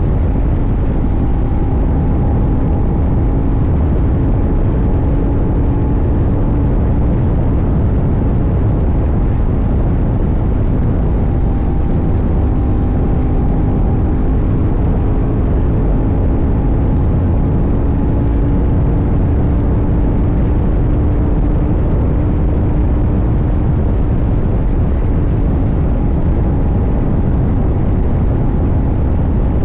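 CFmoto 800NK's 799 cc parallel-twin engine pulling steadily at cruising speed, its note drifting slightly up and down, under a constant low rush of wind and road noise.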